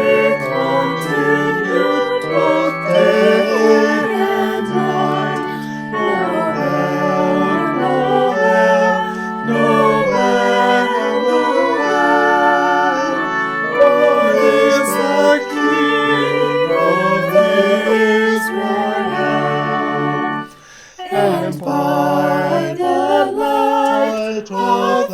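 Church organ playing slow, sustained chords, with a brief break near the end before the next phrase begins.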